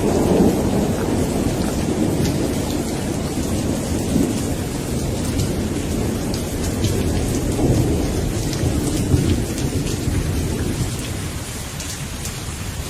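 Thunderstorm: steady rain with a continuous low rumble of rolling thunder that eases a little near the end.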